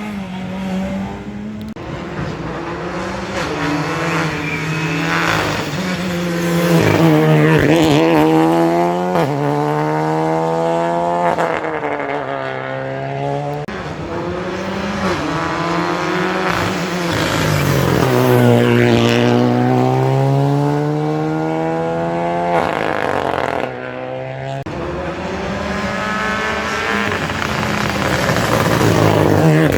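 Rally car engine revving hard on a special stage, its pitch climbing and dropping again and again through gear changes and lifts, growing louder as it comes past.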